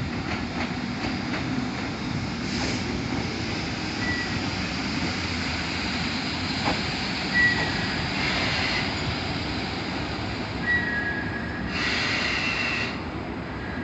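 A train running on the tracks at a station with a steady rumble. Short high-pitched wheel squeals come several times, and a brief hiss comes near the end.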